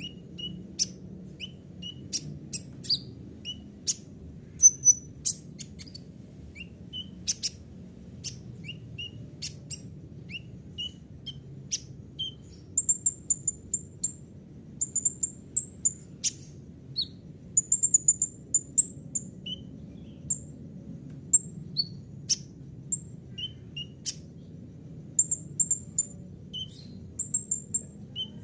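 Kolibri ninja sunbird singing a varied song of rapid, sharp, high-pitched chips and short trilled runs, with notes borrowed from other birds, over a faint low hum.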